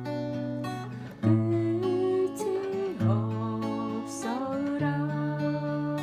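Acoustic guitar music, strummed, with a melody line that slides and bends in pitch through the middle.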